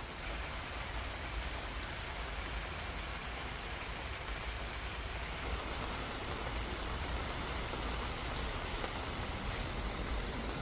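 Steady rain falling and pattering on surfaces in an even hiss, with a low rumble underneath.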